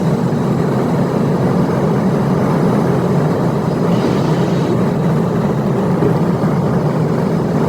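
Steady car road and engine noise heard from inside a moving car.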